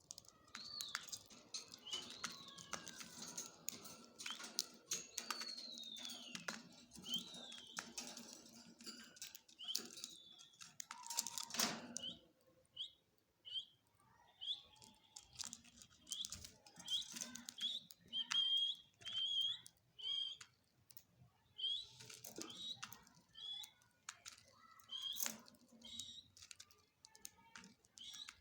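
Parrots chirping and whistling: drawn-out gliding whistles in the first half, then a run of short, repeated chirps, one or two a second, with scattered sharp clicks throughout.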